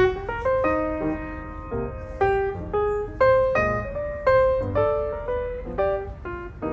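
Background piano music: a melody of single struck notes, each starting sharply and fading, with a stronger accented note about once a second.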